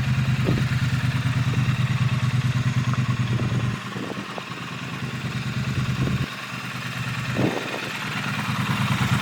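Triumph Street Twin's 900 cc parallel-twin engine idling with a steady low beat. It drops in level about four seconds in and again about six seconds in, with a sharp click a little after seven seconds, then comes back up to full level near the end.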